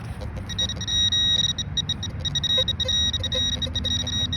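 Metal detector sounding a high, rapidly pulsing electronic tone that begins about half a second in, signalling metal close by, over a low rumble.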